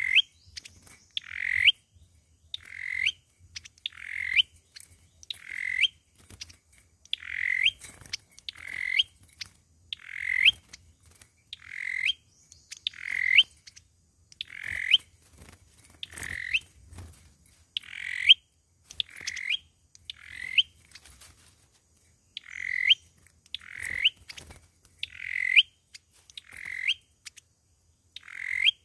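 A sâu dừa songbird repeating one short call about every second and a half, each call ending in a quick upward sweep in pitch.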